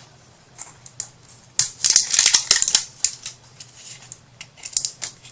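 Rapid clicking and rattling of small hard craft supplies being handled on a work table, loudest for about a second and a half in the middle, with a few more clicks near the end.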